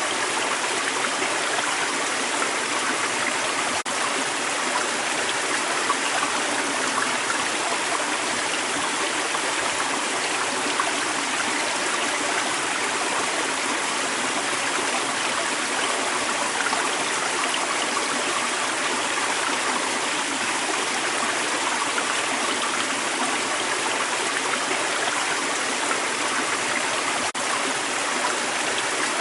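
Creek water running, a steady, even rush with hardly any deep rumble.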